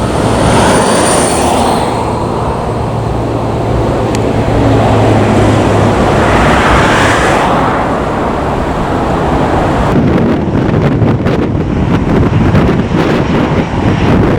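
Jet airliner engines running loud and close, with a steady low hum and a high thin whine during the first couple of seconds. About ten seconds in the sound changes abruptly to rapid wind buffeting on the microphone over continuing engine noise.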